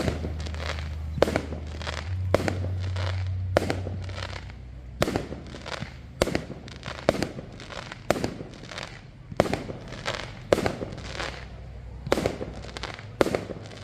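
Fireworks going off in a rapid string of sharp bangs, roughly one or two a second, each with a short echoing tail. A low steady rumble underlies the first few seconds.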